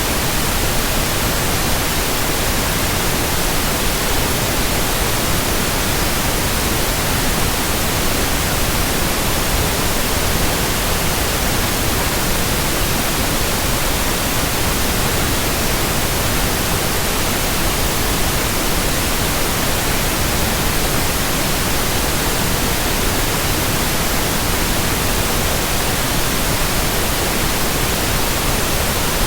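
Steady white noise: an even, unchanging hiss spread across all pitches, with no hum, swish or rhythm in it.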